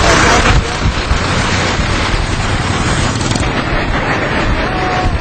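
Loud, steady rushing of flash-flood water, with wind buffeting the microphone.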